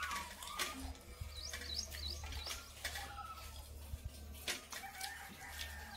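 Small birds chirping in a quick run of short sweeping calls, over a few light clicks and a steady low hum.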